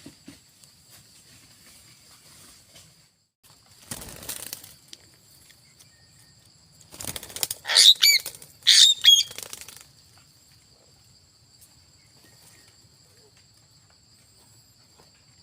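A parrot's wings flapping in a short burst about 4 seconds in, then a louder spell of flapping with two harsh, pitch-bending cries near 8 and 9 seconds, over a steady high-pitched hum.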